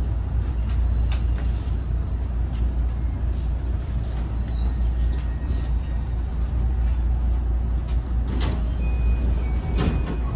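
Interior running noise of a JR West 207 series unpowered trailer car: a steady low rumble of wheels on rail with no motor whine, and a few brief high squeals as the train brakes for its stop.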